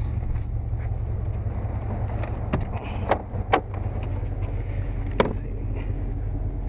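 Steady low rumble of an idling vehicle engine, with four sharp knocks of metal parts being handled, strongest about five seconds in.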